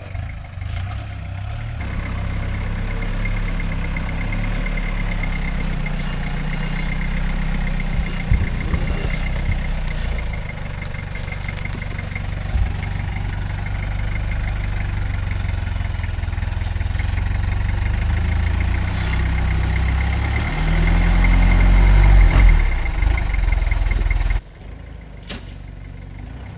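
Off-road rock-crawling truck's engine pulling at low speed as it climbs over rocks, with a thin steady whine over it. The engine grows louder and heavier near the end, then the sound drops abruptly to a much quieter level.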